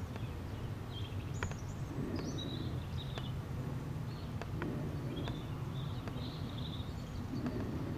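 Pigeon cooing in low, soft phrases about every two and a half seconds, with small birds chirping high above it and a steady low rumble underneath.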